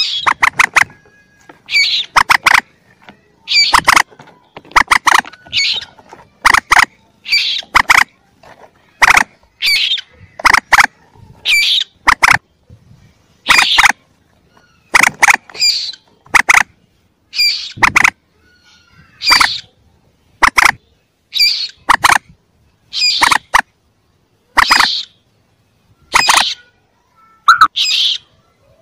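Recorded calls of young mandar, the swamp rails the uploader tags as common moorhen, played as a hunting lure. Short, loud, sharp calls repeat about once a second in uneven groups, with brief pauses between them.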